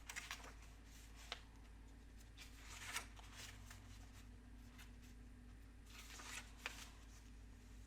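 Faint rustling and a few small clicks of a picture book's paper pages being handled and turned, over near silence.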